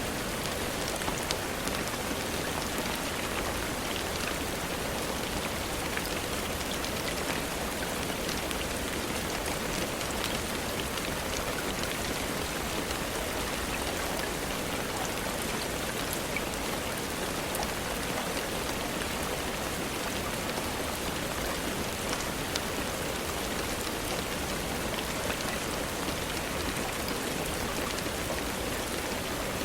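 Steady rain falling, with individual drops pattering on a surface scattered through the hiss.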